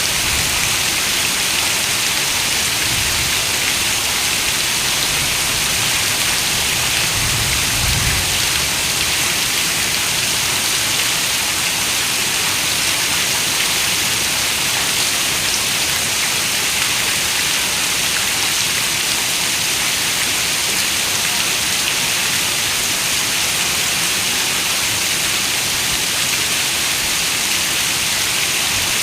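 Heavy rain falling steadily on a window, an even, dense patter, with a brief low rumble about seven seconds in.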